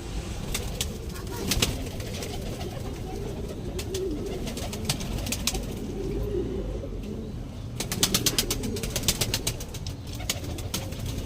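Domestic fancy pigeons cooing in low, rolling calls. About eight seconds in comes a quick run of sharp clicks lasting a second or two.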